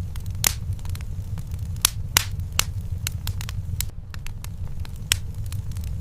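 Wood fire burning in a fireplace: a steady low rumble of flames under irregular sharp crackles and pops, a few of them louder, about half a second, two seconds and five seconds in.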